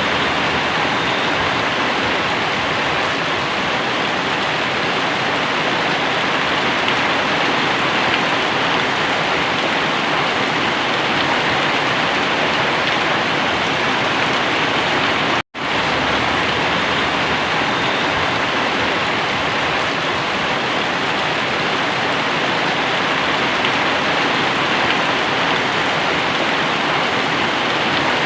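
Very heavy rain pouring down in a dense, steady hiss. It is cut off for a split second about halfway through, then goes on unchanged.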